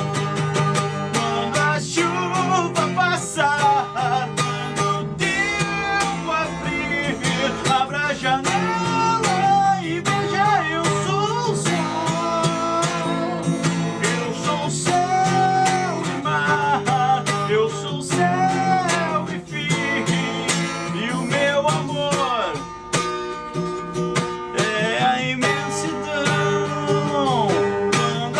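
Guitar music: an instrumental passage in which a lead melody bends and wavers in pitch over sustained low accompanying notes.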